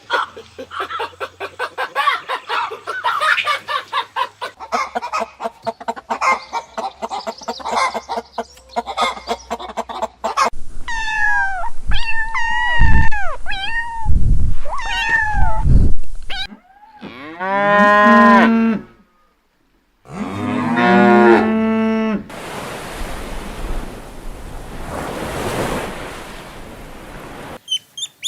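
A run of farm-animal calls: a dense stretch of rapid calls, then a series of short arching calls, then two long cow moos with a brief gap between them past the middle, followed by a steady hissing noise near the end.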